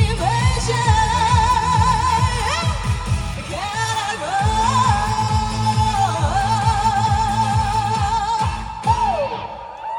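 A woman singing the closing lines of a trot song over backing music with a steady beat, holding two long notes with wide vibrato. The song ends near the end, the last note falling away as the music stops.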